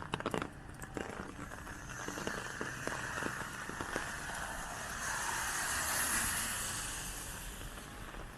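A vehicle passes on a wet road, its tyres hissing: the sound swells to its loudest about six seconds in and then fades. A few sharp taps come in the first second.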